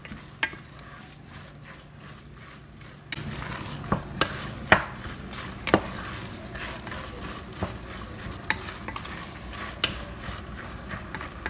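Ground chicken frying in a sauce in a frying pan, sizzling while a utensil stirs it, with sharp knocks of the utensil against the pan. The sizzling gets louder about three seconds in.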